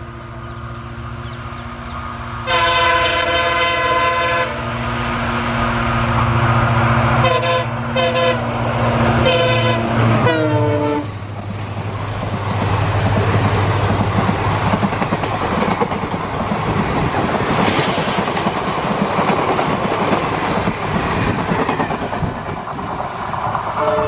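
Diesel locomotive of an Indian Railways passenger train approaching with its engine drone, sounding its horn: one long blast, then a few short blasts, the last dropping in pitch as the locomotive passes about ten seconds in. The coaches then run past with steady, loud wheel-and-rail noise.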